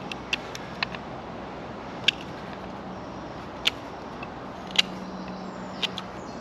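A knife nicking and scraping a wooden bow drill part, heard as a handful of short, sharp clicks scattered irregularly over a steady low hiss.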